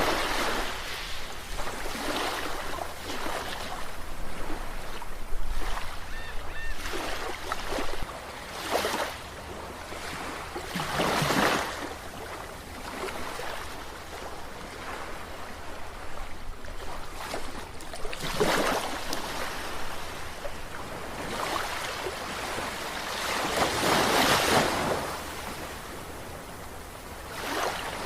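Sea waves washing in, the sound of surf swelling and fading in irregular surges a few seconds apart, with stronger surges about eleven seconds in and again near the end.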